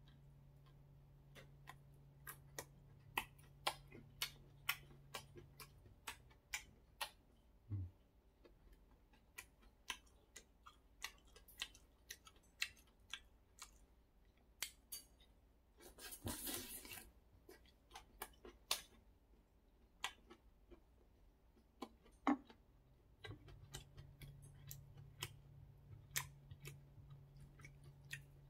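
Close-up mouth sounds of a person eating spicy malatang soup with shrimp. The chewing is heard as sharp, irregular clicks, about one or two a second, with a short hissing noise about sixteen seconds in.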